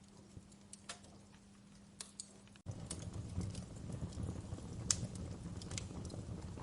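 Wood fire crackling with sharp, scattered pops over a faint steady hum. About two and a half seconds in the sound cuts off for an instant and resumes louder, with a low rumble of flames under denser crackles.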